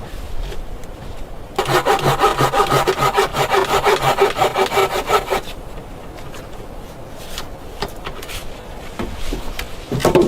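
Saw cutting wood in quick, even back-and-forth strokes for about four seconds, then stopping. A couple of sharp knocks come near the end.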